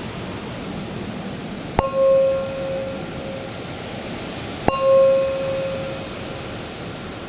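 A small metal bell or chime struck twice, about three seconds apart, each strike ringing out clearly and fading over a second or two, signalling the end of a sound meditation. Under it runs a steady rush of storm wind.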